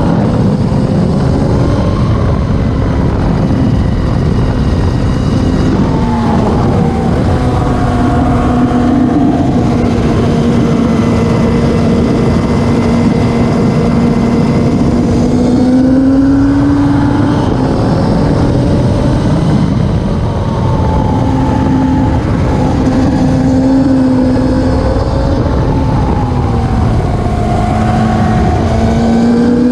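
Classic superbike racing motorcycle engine running hard at high revs, its pitch climbing and dropping back a few times with throttle and gear changes.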